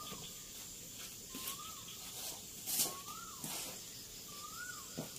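A bird repeating a short whistle that rises and then falls, four times about a second and a half apart, over a steady high insect hum and a few faint clicks.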